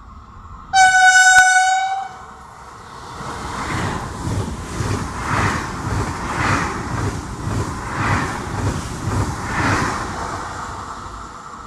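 A train horn gives one steady blast of about a second. Then an Italo high-speed train passes, its wheels on the rails beating out about one pulse a second as the cars go by, fading near the end.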